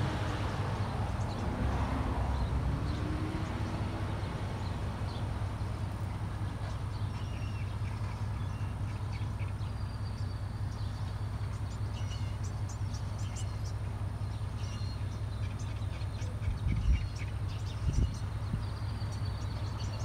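Small birds chirping in short, high calls again and again over a steady low rumble, with two dull thumps near the end.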